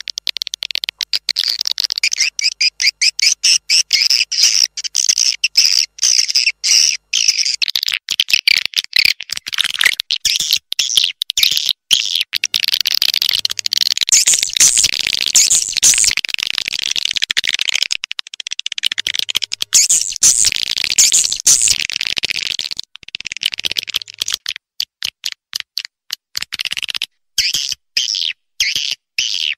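Swiftlets twittering: dense, high-pitched chirps in fast stuttering runs with many short breaks, the kind of swiftlet call track played to lure birds to a swiftlet house.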